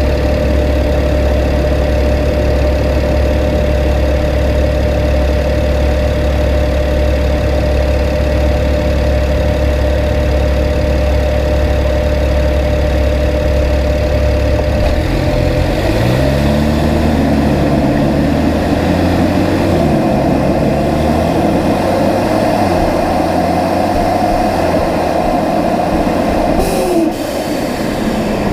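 BMW 335is N54 twin-turbo straight-six running steadily at low revs, then from about halfway through its pitch rises and falls repeatedly as it revs under way. The sound changes abruptly shortly before the end.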